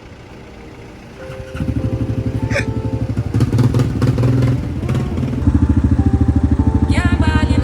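ATV engine starts up about a second and a half in and runs with an even, rapid pulsing, getting louder a few seconds later. A voice calls out near the end.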